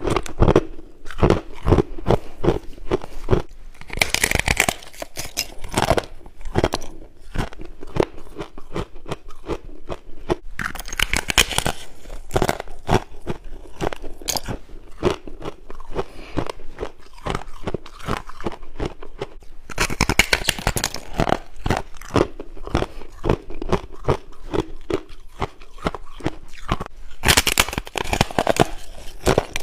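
A person biting and chewing frosty ice close to the microphone: continuous crisp crunching and crackling. Four louder bites stand out, roughly every seven to eight seconds, with chewing between them.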